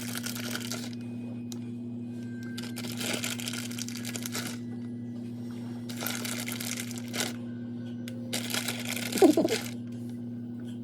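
Kitchen handling sounds during food preparation: several bursts of rustling and scraping, with a louder knock near the end, over a steady low hum.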